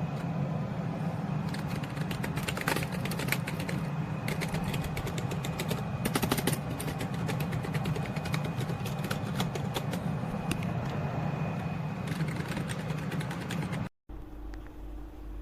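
Keys being typed on a membrane gaming keyboard: quick, irregular clusters of clicks over a steady low background hum. The sound cuts off suddenly near the end and gives way to a quieter hum.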